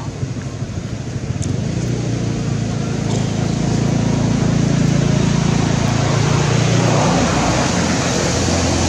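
A motor vehicle engine running with a steady low hum. It grows louder over the first few seconds, then eases slightly near the end.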